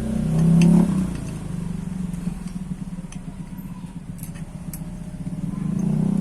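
A motor vehicle engine running, its low rumble swelling just under a second in and again near the end, with a few light metallic clicks.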